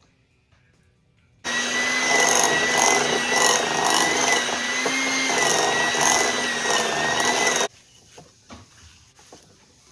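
Electric hand mixer running, its beaters working egg yolks into creamed butter and sugar cookie dough; it switches on about a second and a half in with a steady whine and cuts off suddenly some six seconds later. Faint scraping of a spatula in the bowl follows.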